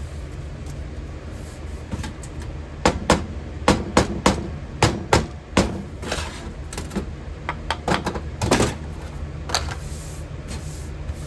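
Irregular sharp knocks and taps, about a dozen of them, mostly in the middle of the stretch, from work on a sand-casting mould as a pattern is pressed into the sand. A steady low hum runs underneath.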